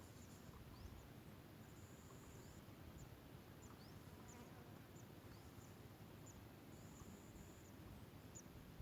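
Near-silent outdoor ambience with faint, short high-pitched chirps repeating every half second to a second, and twice a thin steady high tone lasting under a second.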